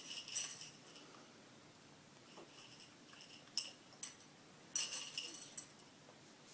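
Several short bursts of light clinking and rattling, with a faint ringing high tone in the louder bursts.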